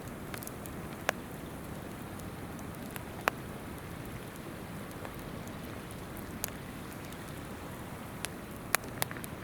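Wood campfire crackling, with about half a dozen sharp pops scattered through, over the steady babble of a flowing river.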